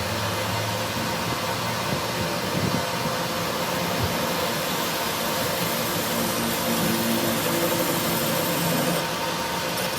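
Steady machine noise, an even hiss with a faint wavering hum underneath.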